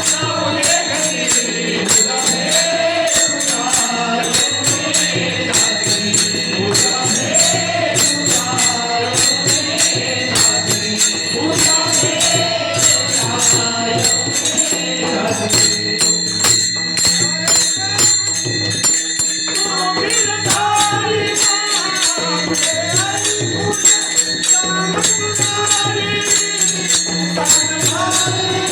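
Marathi devotional bhajan to Krishna: singing over a steady drone, with evenly repeating percussion beats.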